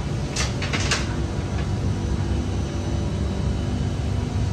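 Steady low rumble inside a Singapore MRT Circle Line train carriage, with a short cluster of hissing about half a second in.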